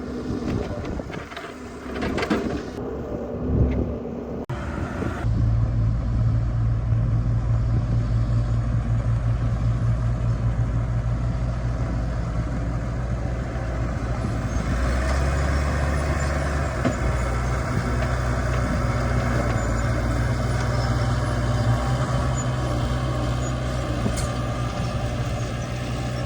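Excavator diesel engine running. The first few seconds hold irregular knocking and scraping noise; then the engine comes in loud about five seconds in and runs steadily, its note dropping lower for a couple of seconds around the middle.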